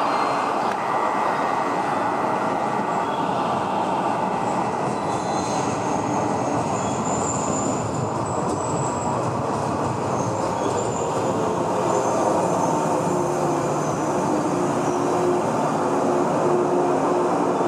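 Electric train pulling into a station and rolling slowly past close by, with a steady rumble of wheels on rail. Faint high squeals come through in the middle as it brakes, and a steady hum joins in over the second half as it slows.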